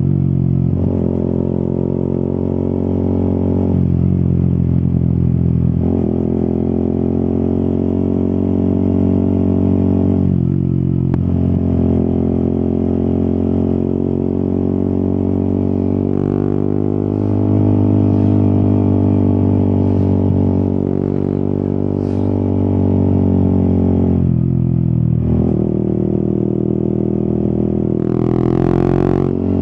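Yamaha XSR 155's single-cylinder engine running under way, its note changing pitch several times as the ride goes on, with a brief rising rev near the end.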